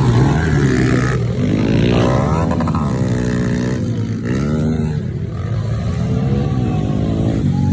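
Pit bike engines revving up and down, several at once, their pitch rising and falling with throttle and gear changes as they race.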